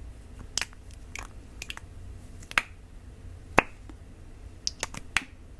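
Irregular light taps on a glass perfume bottle, about nine sharp clicks, with one harder tap about three and a half seconds in.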